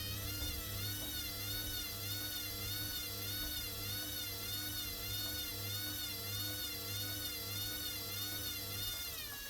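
Hoover washer-dryer's drum motor whining at spin speed, its pitch wavering about twice a second over a steady hum. Near the end the whine starts to fall as the spin begins to wind down.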